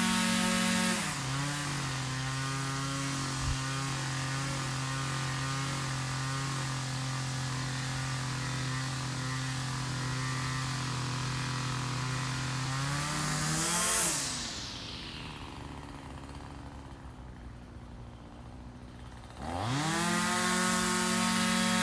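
Small two-stroke engine running at high speed, dropping to a lower steady speed about a second in, briefly revving near the middle, then falling away to a faint low level for about five seconds before revving sharply back up to high speed near the end.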